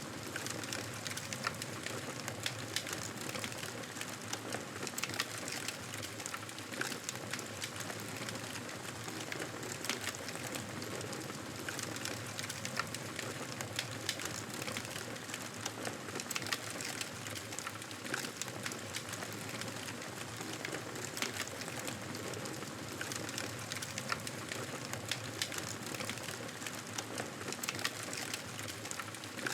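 Wood fire crackling in a fireplace: a steady hiss with frequent small pops and snaps.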